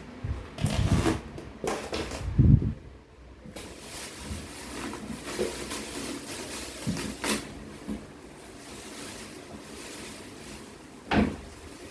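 Cardboard box and packing being handled and pulled apart: a few heavy bumps and thuds in the first three seconds, then rustling and scraping with light clicks, and a sharp knock near the end.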